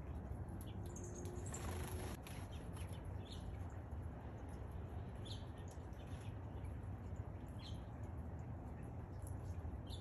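Small birds chirping: short, high chirps every second or two over a steady background hiss and low rumble.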